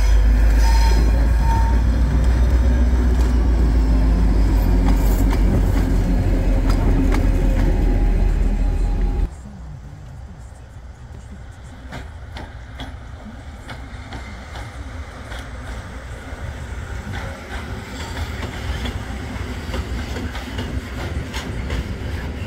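Heavy diesel locomotive running loudly with a deep, steady engine note as it moves with a freight train, cut off suddenly about nine seconds in. After the cut, a quieter freight train of open wagons rolls past, wheels clicking over the rail joints, growing louder toward the end, with wind on the microphone.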